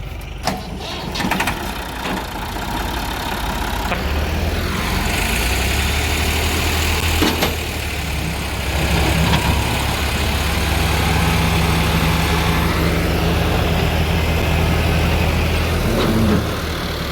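JCB loader's diesel engine running, revving up about four seconds in and holding higher revs, then dropping back near the end, with a few sharp metallic clanks along the way.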